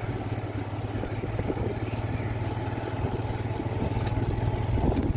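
An engine running steadily: a continuous low, droning hum with a rough texture.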